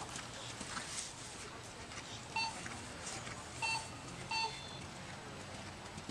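Three short electronic beeps, the first about two seconds in, then two more closer together, over a steady background hiss.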